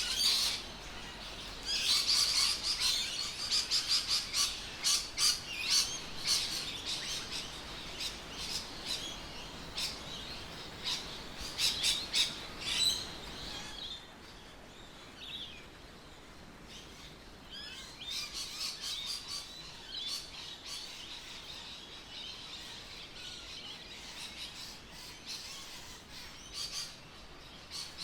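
Birds chirping: many short, high calls, dense through the first half and thinning out after about halfway.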